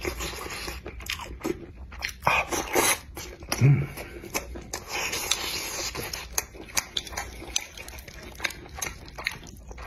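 Close-miked wet chewing, smacking and biting of saucy spicy squid and noodles, with many short mouth clicks. A short low burst about four seconds in is the loudest moment.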